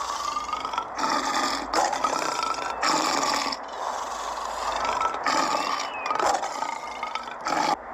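Lion calling: a run of long, rough calls with short breaks between them.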